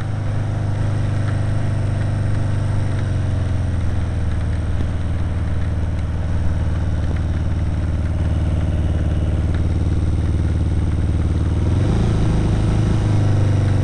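Kawasaki KZ750 motorcycle engine running under way, its note easing down over the first few seconds, then holding steady over a steady hiss, and shifting about two seconds before the end.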